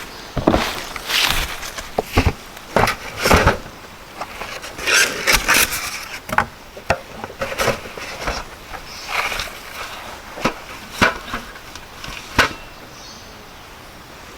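Irregular knocks, clicks and rustling of things being handled and set down, coming in quick clusters, then dying away near the end into a quieter steady background.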